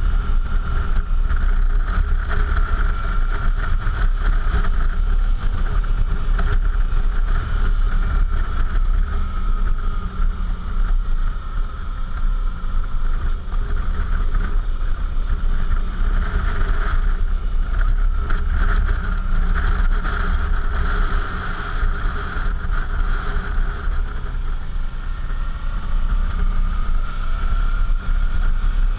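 Suzuki V-Strom V-twin motorcycle engine running on the move, with wind rushing over the camera microphone. The engine's hum sags about a third of the way in and climbs again near the end as the speed changes.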